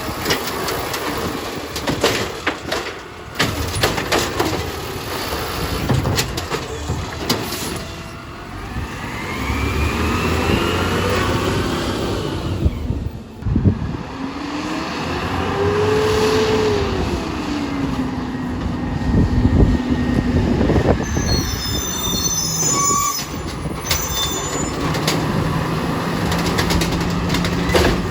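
Garbage truck running and working, with squealing tones that rise and fall over the engine rumble and occasional knocks, changing to another truck's sound about halfway through.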